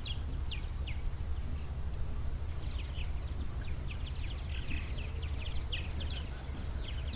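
A flock of small birds chirping and calling together in short, quick downward notes, growing busier from about two and a half seconds in, over a steady low rumble.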